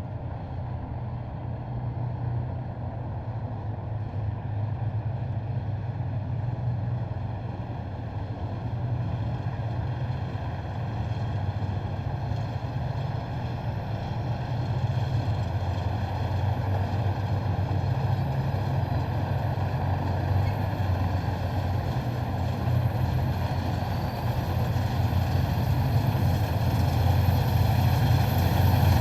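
Heavy military vehicle engines in a passing column, a steady low drone that slowly grows louder as the vehicles approach.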